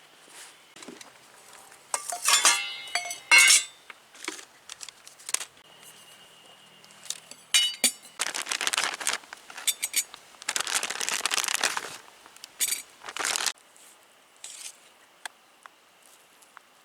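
Cookware and utensils being handled: metal and glass clinking and rattling with brief ringing about two to three seconds in, then several longer spells of rustling.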